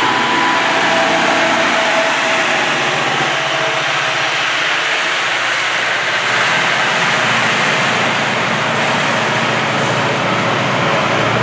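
GO Transit train of bilevel coaches and an MP40 diesel locomotive passing close by: a loud, steady rumble and rush of wheels on rail, with a steady engine tone over the first few seconds.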